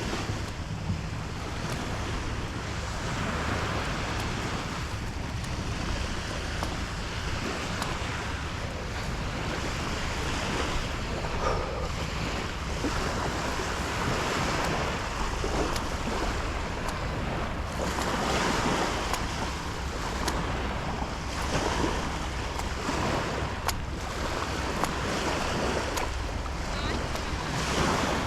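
Ocean surf washing on the beach, swelling every few seconds, with wind rumbling on the microphone.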